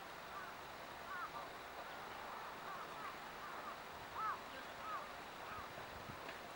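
Faint bird calls: short chirps repeating one or two a second, one a little louder about four seconds in, over quiet outdoor background.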